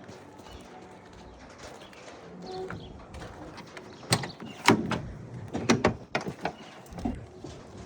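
A door being worked: a run of sharp clunks and knocks starting about four seconds in, the loudest about halfway through.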